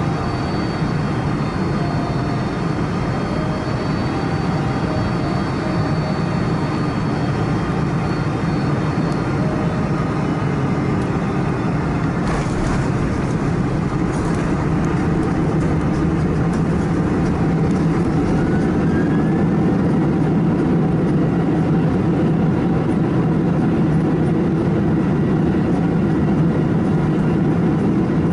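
Jet airliner engines running with a steady, loud rumble and hiss, growing slightly louder about two-thirds of the way through.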